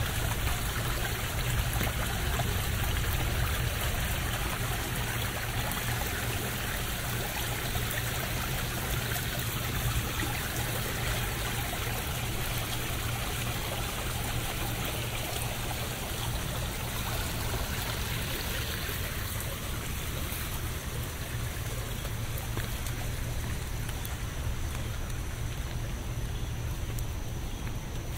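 Steady rain falling, a continuous even hiss with no distinct drops standing out.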